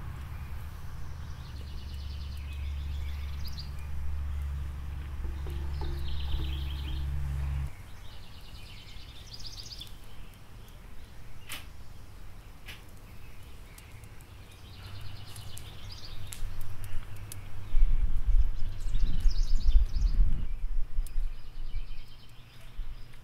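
Short, high songbird songs repeated every few seconds, with a couple of sharp taps around the middle. Under them runs a low rumble that swells into loud buffeting about three quarters of the way through.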